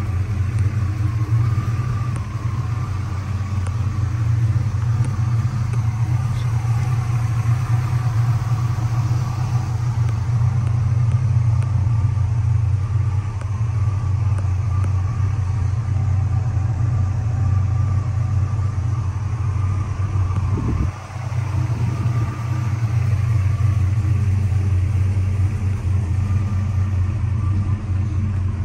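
Oldsmobile 403 V8 in a 1979 Pontiac Trans Am idling steadily with a low, even rumble.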